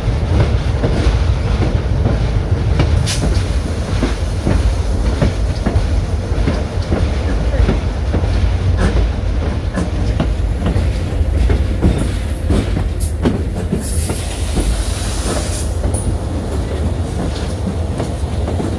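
Passenger train rolling along, heard from on board: a steady low rumble with wheels clicking over the rail joints, and a short high-pitched squeal about fourteen seconds in.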